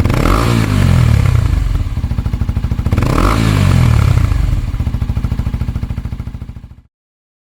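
Kawasaki Ninja 250SL's single-cylinder engine running through a Yoshimura R-77S Cyclone slip-on muffler: idling, blipped up in revs and back down twice about three seconds apart, then fading out near the end.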